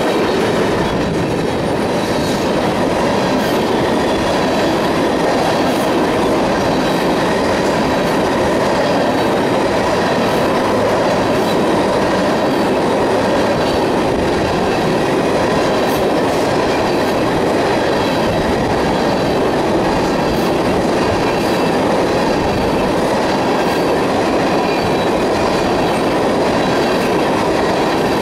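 Freight train of tank cars rolling past close by: a loud, steady rumble of steel wheels on rail, with faint thin steady tones above it and scattered light clicks.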